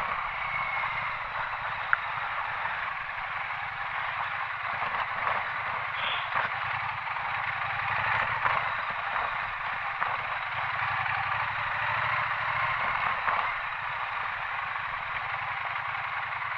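Motorcycle on the move: steady wind and tyre noise over a rough road surface, with the engine running underneath.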